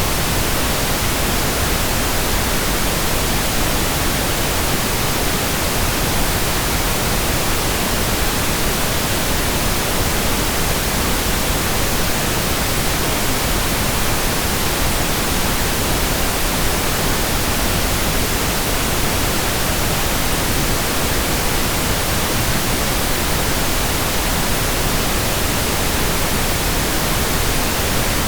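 Steady pink noise: an even, unchanging hiss across the whole range, with no events.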